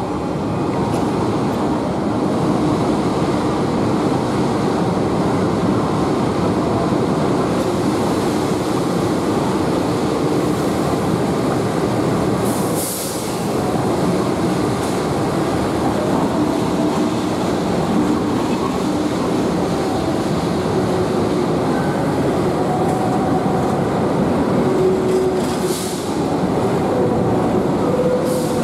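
Diesel locomotive and its stainless-steel passenger coaches passing close by on the adjacent track, with the engine running and the steel wheels rolling over the rails.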